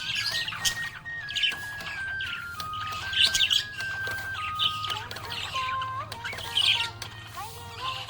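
Budgie chirping in quick bursts about once a second, over a simple background melody of held notes.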